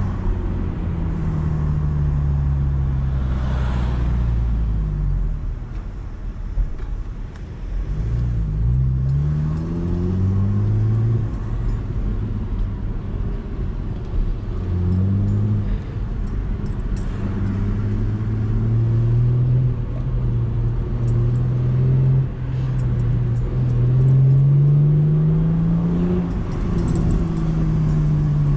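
Chevrolet Camaro engine and exhaust heard from inside the cabin while driving, the revs climbing several times under acceleration and falling back in between.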